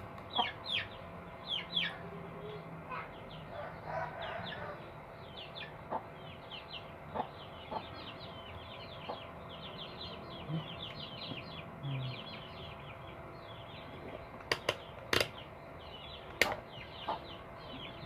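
Birds chirping over and over: many short, high, downward chirps. A few sharp clicks near the end.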